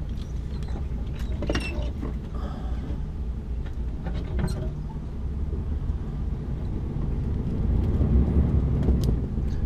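Articulated lorry's diesel engine running with a steady low rumble, heard from inside the cab while driving slowly, growing louder over the last few seconds, with a few faint clicks and rattles from the cab.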